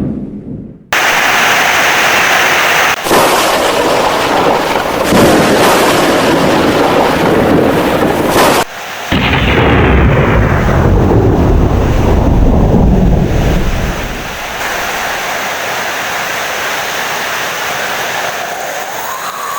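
Thunder rumbling over heavy rain. The rumble starts suddenly about a second in, breaks off briefly twice, and dies away about two-thirds of the way through, leaving a steady rain hiss.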